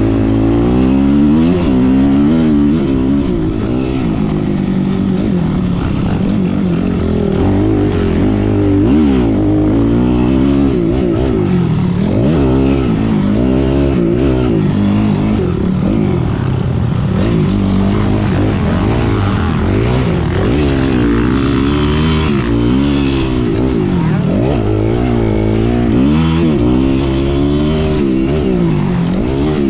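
Dirt bike engines revving up and down over and over on a motocross track, several at once, their pitches rising and falling and crossing.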